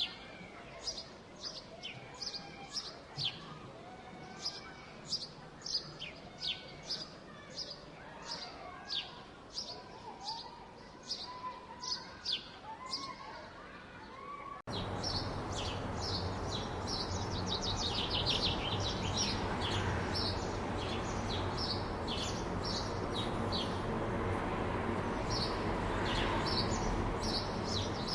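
Small birds chirping over and over in a park, roughly two short high chirps a second. About halfway through, the background abruptly jumps louder to a steady city hum and wash of noise, over which the birds keep chirping more densely, with a quick trill soon after the change.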